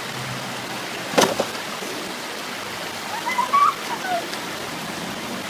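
Steady rushing noise like running water, with a single sharp knock about a second in and a short faint voice-like glide around three and a half seconds.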